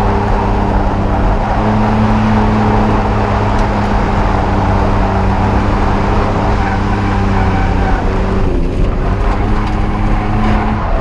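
Drift car's engine held at steady high revs, with tyre and exhaust noise, easing off briefly about eight and a half seconds in.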